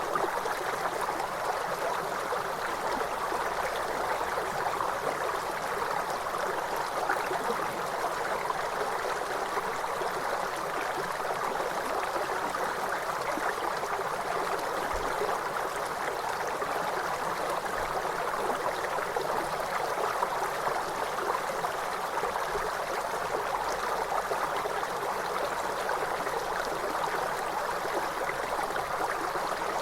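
River water flowing and rushing over stones, a steady, unbroken rush.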